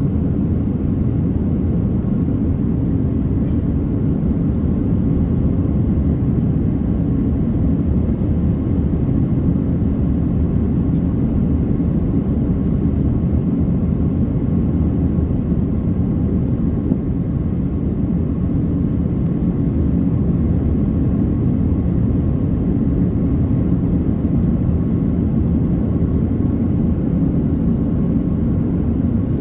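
Steady low roar of an Airbus A330-900neo in flight, its Rolls-Royce Trent 7000 engines and the rushing air heard from inside the passenger cabin.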